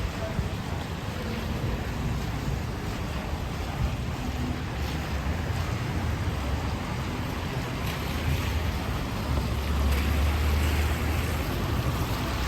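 City street ambience in the rain: a steady wash of rain and traffic noise, with a deeper vehicle rumble that swells about ten seconds in.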